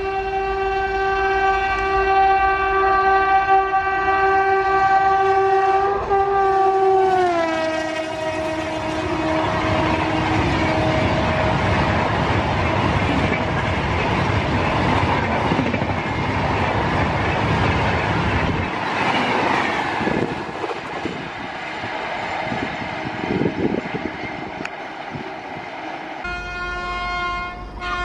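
Electric locomotive horn blowing long and steady as the train approaches at speed. The pitch drops sharply as the locomotive passes, then the coaches rush and clatter past at about 130 km/h. Near the end a second locomotive's horn starts up, steady.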